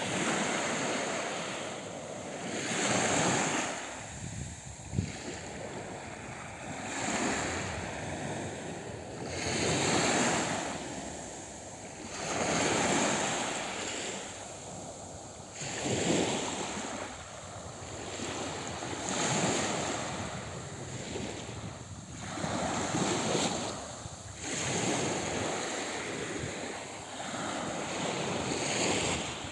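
Sea waves washing onto the shore, a surge every three seconds or so, with wind buffeting the microphone.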